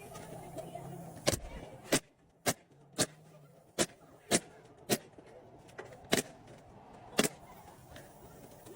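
A series of about nine sharp knocks from construction work, mostly about half a second apart, with a longer pause past the middle.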